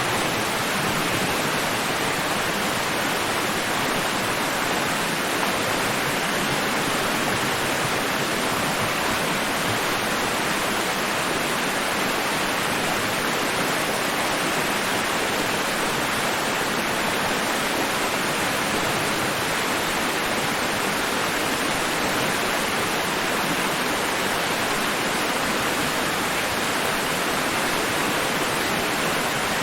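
Steady noise track for sleep: an even, unchanging hiss with no rise and fall of waves and no other sounds.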